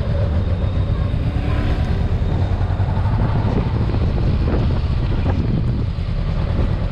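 Steady low engine rumble mixed with wind buffeting the microphone.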